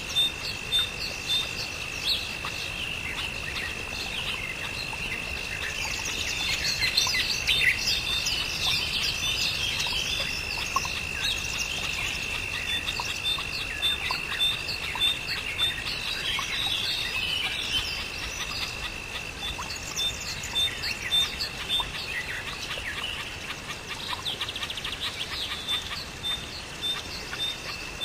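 Birds chirping and calling, many quick chirps overlapping, over a steady high-pitched tone. A run of fast, evenly spaced pips sounds at the start and again near the end.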